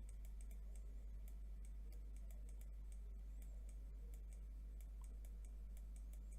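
Faint computer keyboard typing: irregular light key clicks, several a second, over a steady low electrical hum.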